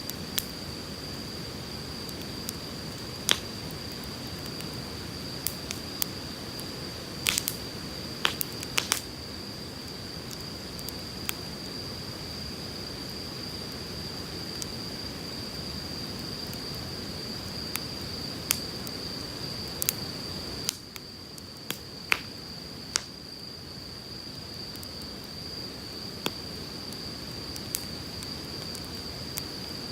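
Wood fire crackling, with sharp pops of burning firewood scattered irregularly, over the steady rush of a flowing stream. A continuous high-pitched tone runs underneath.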